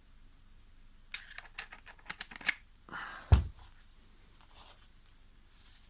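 Small metal parts being handled as a 1/4 inch pitch chainsaw sprocket is fitted onto the drive shaft of a Makita DUC254 battery chainsaw: a quick run of light clicks and taps, then a single louder knock a little past the midpoint.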